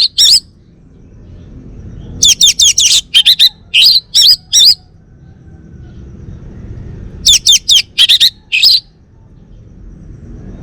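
Male orange-headed thrush singing: loud phrases of quick, high sweeping notes, one ending just at the start, another about two seconds in and a third about seven seconds in, with pauses between them.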